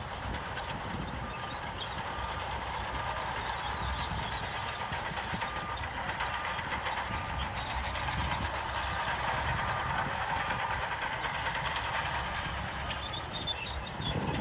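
Diesel engine of heavy earthmoving machinery running steadily, with a reversing alarm beeping repeatedly over roughly the first half.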